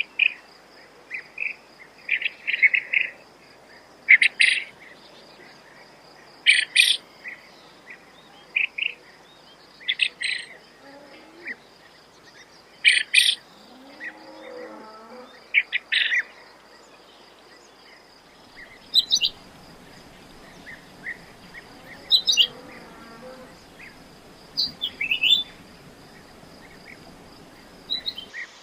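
Quail calling over and over in short bursts of two or three quick, high notes, about every two seconds. A steady, thin, high insect trill runs underneath.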